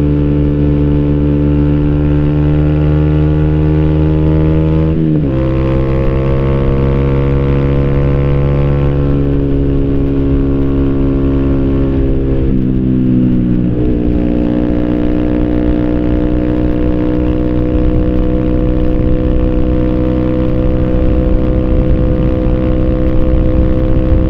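2014 Yamaha YZF-R 125's single-cylinder four-stroke engine running through an Arrow racing header and Thunder slip-on exhaust with the dB-killer fitted, while riding. The engine note shifts in pitch about five seconds in and dips and recovers around thirteen seconds in, then holds steady and rises slowly.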